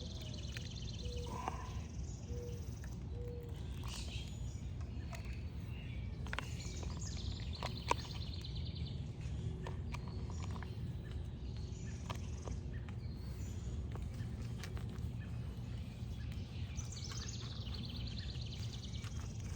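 Birds chirping and trilling in short repeated phrases over a steady low background rumble. A few light clicks are scattered through, the sharpest about eight seconds in.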